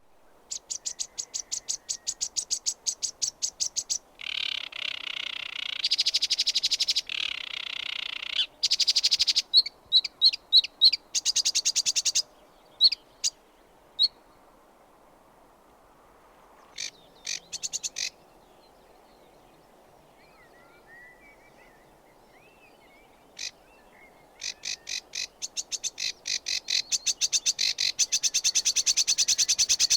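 Sedge warbler singing: a long, varied song of rapid rattling trills and harsh, buzzy chatter broken by short pauses. In the middle there is a quieter gap with a few faint chirps and short bursts. Near the end a long, fast rattle builds up.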